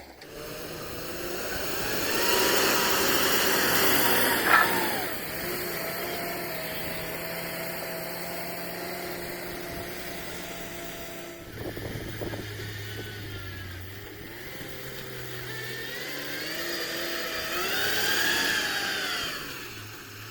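An engine running and revving up and down, with a sharp knock about four and a half seconds in and another rise and fall in pitch near the end.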